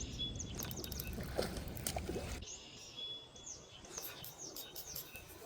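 Small birds chirping, with short quick chirps and a couple of brief whistled notes. Wind rumbles on the microphone and stops abruptly about halfway through.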